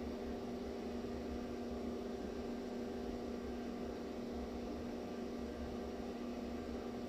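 Steady background hum with a faint hiss, holding one even level throughout; no engine running and no tool sounds.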